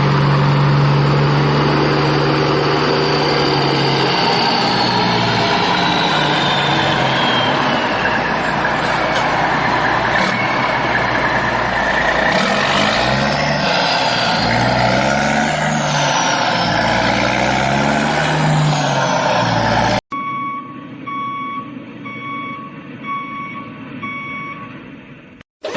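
Heavy vehicle engine running and revving, its pitch rising and falling repeatedly, with a falling whistle-like tone early on. About twenty seconds in it cuts off abruptly and a reversing beeper sounds, a steady electronic beep repeating a little more than once a second.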